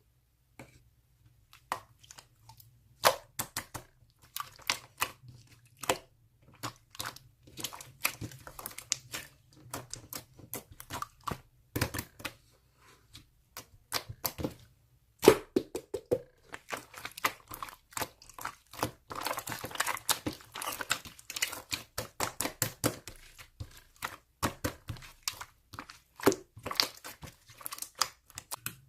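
Slime being squeezed and worked by hand, making a run of irregular sticky clicks and pops. The pops come thickest in a crackling stretch about two-thirds of the way through.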